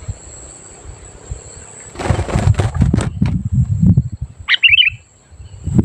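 Sooty-headed bulbul (kutilang) giving one short, quick phrase of bubbly notes about four and a half seconds in. From about two seconds in, a loud low rumbling noise sits under it, with crackling around the two- to three-second mark.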